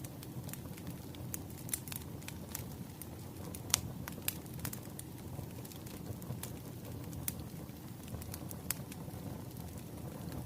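Wood fire crackling: irregular sharp pops and snaps over a steady low rumble of burning logs. The loudest pop comes about a third of the way in.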